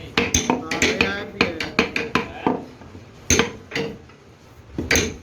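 Irregular metallic clanks and clinks, metal striking metal about a dozen times, tightly bunched at first and then a few spaced strikes. Each hit rings briefly.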